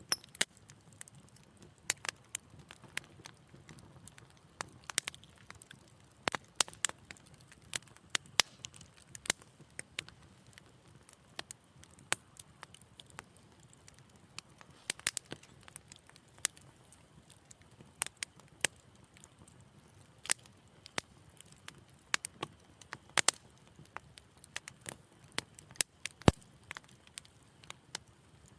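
Wood fire crackling in a fireplace: irregular sharp pops and snaps, a few a second, over a faint low rumble of flames.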